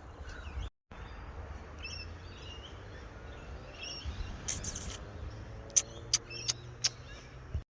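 Small birds chirping in short, repeated calls over a steady low rumble, with a few sharp clicks in the second half.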